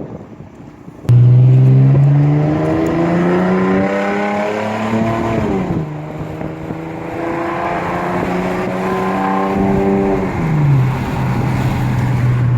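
A 2010 Dodge Challenger SE's 3.5 L V6 running through a straight-piped exhaust, starting loud about a second in and revving up. Its pitch climbs for several seconds, drops about five seconds in, climbs again, then falls back and holds steady near the end.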